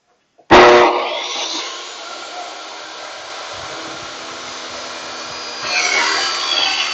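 Table saw switched on about half a second in, its motor starting with a loud jump and then running steady. Near the end the sound grows louder and harsher as the blade starts cutting into the wood.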